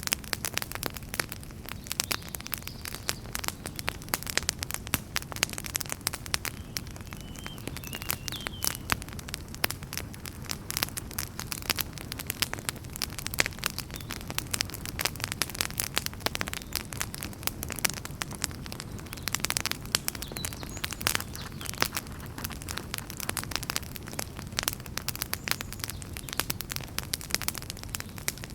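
Wood fire burning in a fireplace, crackling and popping constantly over a low, steady rumble of the flames. Around eight seconds in, a brief faint hiss wavers high up, like steam escaping from a log.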